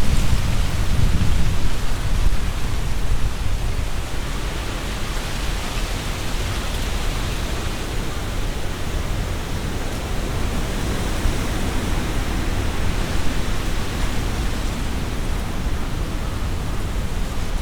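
Strong wind through trees, with leaves rustling in a steady hiss. A gust brings a heavy low rumble at the start, which eases within the first few seconds.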